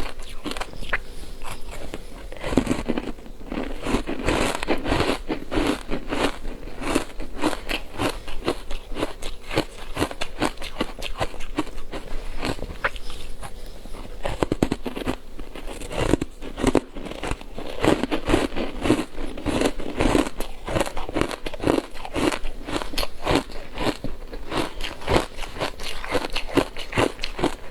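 Ice being bitten and chewed close up: a continuous run of sharp cracks and crunches.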